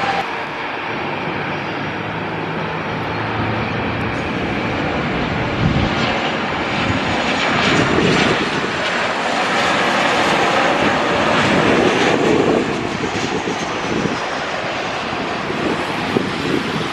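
Airliner engines running, a loud, steady rush that swells a little around the middle.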